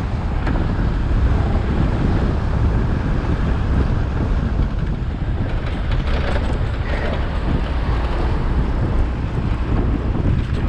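Wind buffeting the action camera's microphone on a moving Suzuki Access 125 scooter, over a steady low rumble of engine and road.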